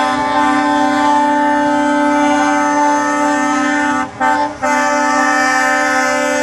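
Truck air horns blasting in long, held chord-like notes, with two brief breaks about four seconds in.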